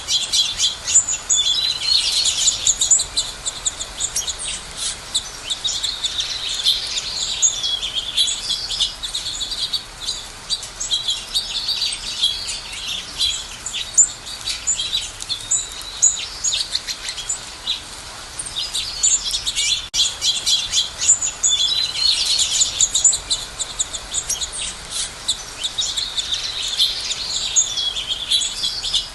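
Many small songbirds chirping and singing at once, a dense, continuous chorus of quick, high chirps and trills.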